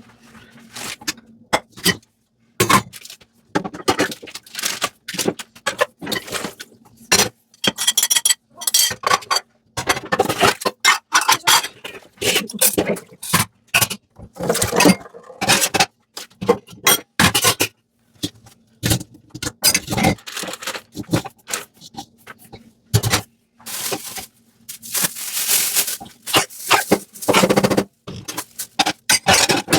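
Sponge scrubbing dishes in short stop-start strokes, with occasional clinks of dishware.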